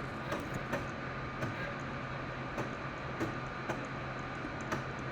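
Computer mouse clicking at irregular intervals, about one click every half second to a second, over a steady low hum.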